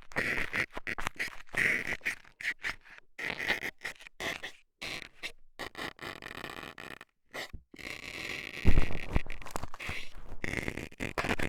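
Metal scaler scraping and poking against a microphone's ear, heard very close, in quick irregular strokes. There are short pauses near the middle, then a louder, deeper rubbing about two thirds of the way through.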